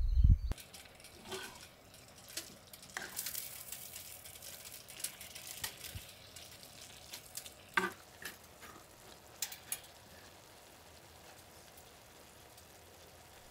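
Food frying in a pan: a steady sizzle with scattered sharp pops. A low rumble cuts off about half a second in.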